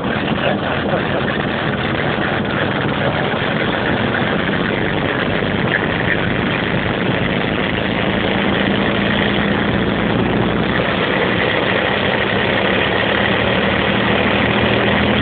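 A large machine's engine idling steadily just after a cold start. It caught without starting fluid after sitting for days in freezing weather.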